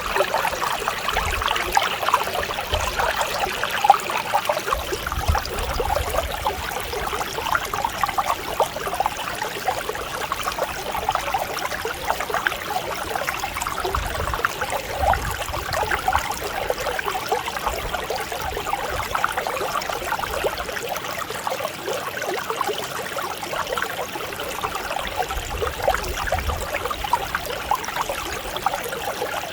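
Mountain stream flowing steadily over rocks, a constant babbling and trickling of water.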